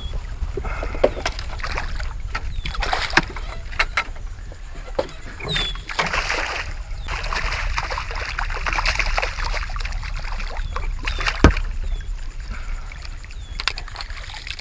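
Water splashing and sloshing beside a small boat as a hooked redfish is fought to the side, with scattered clicks and one sharp loud knock late on.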